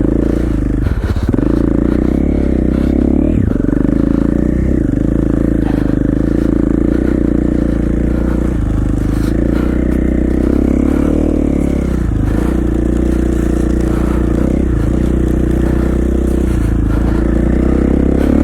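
KTM 450 XC-F's single-cylinder four-stroke engine running hard as the dirt bike is ridden through snow, its pitch dipping and rising again and again with the throttle. Some scraping and clattering mixes in.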